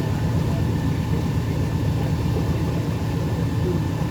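Tour boat's engine running steadily with an even low rumble.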